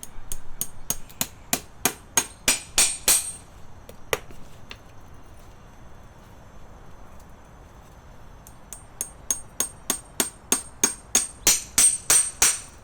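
Farrier's hammer striking metal in two runs of about three blows a second, each run growing louder toward its end, with a high metallic ring; the pattern fits driving horseshoe nails into a hoof.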